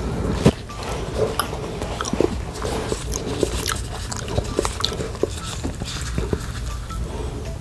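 Close-miked eating sounds of grilled beef steak: chewing, with short wet clicks and smacks coming irregularly, a few a second.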